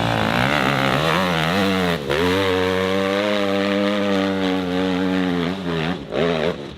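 Dirt bike engine revving hard at high rpm on a hill climb. The pitch wavers at first, dips sharply for a moment about two seconds in, then holds high and steady before falling away near the end.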